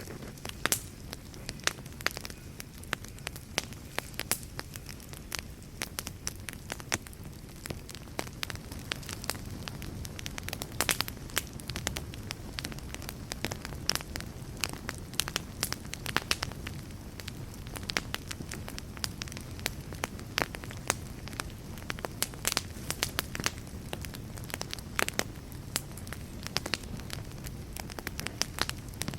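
Wood fire burning in a fireplace, a steady low rumble under frequent irregular sharp crackles and pops.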